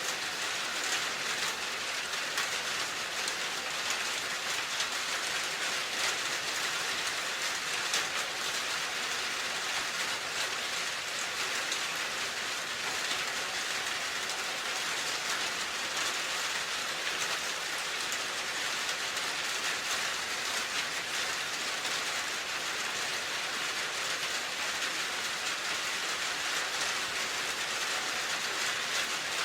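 Steady rain falling, a constant hiss flecked with many small drop impacts.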